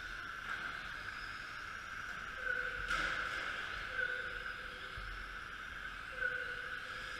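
Radio-controlled racing trucks running around the track, their motors giving a steady high whine that swells and fades as the trucks pass. There is one sharp knock about three seconds in, like a truck hitting something.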